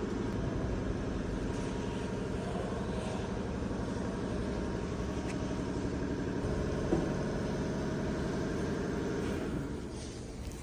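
A machine running steadily with an even low drone, which drops away near the end.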